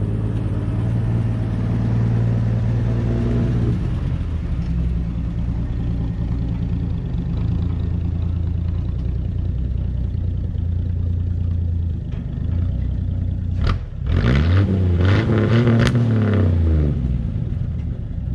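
1966 Chevrolet C30 truck engine running steadily. About 14 seconds in it dips briefly, then the engine speed rises and falls for a few seconds before settling back.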